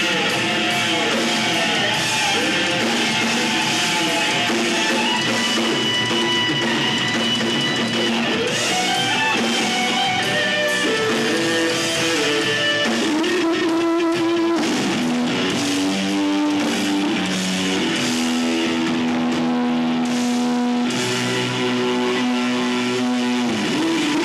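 A live rock band playing: electric guitar with drum kit, long held notes changing pitch every second or so, with no singing.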